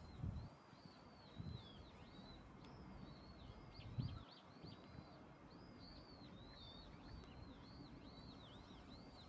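Eurasian oystercatchers calling: a faint, unbroken run of high piping notes, several a second. A few short low thumps sound underneath, the loudest about four seconds in.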